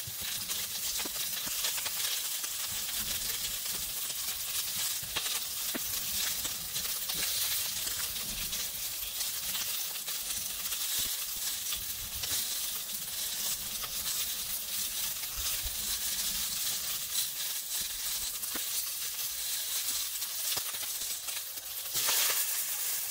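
Scored squid pieces sizzling steadily in smoking-hot oil in a frying pan on a gas burner. Near the end the sizzle briefly gets louder as the pan is lifted and tossed.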